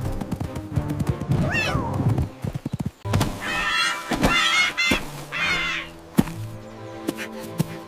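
Cartoon soundtrack: background music with a falling pitch glide, then three bursts of a character's high, wavering vocal sounds in the middle, and a sharp knock about six seconds in.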